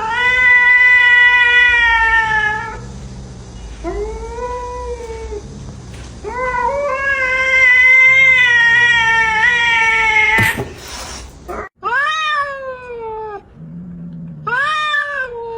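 Domestic cat meowing in long, drawn-out yowls, then a few shorter meows after a brief break about eleven seconds in.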